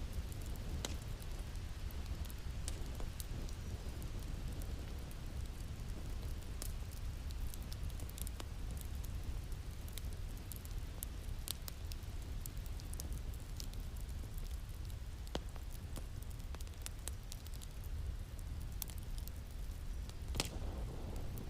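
Wood fire crackling in a fireplace: irregular pops and snaps over a steady low rumble, with a louder snap near the end.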